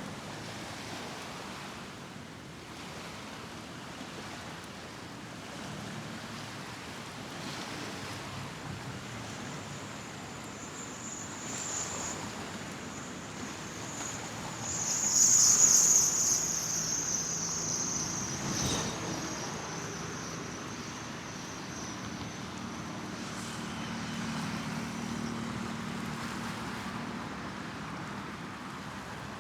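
Night city street ambience with a steady wash of traffic noise. About midway a thin, high whine swells up, becomes the loudest sound, then fades out.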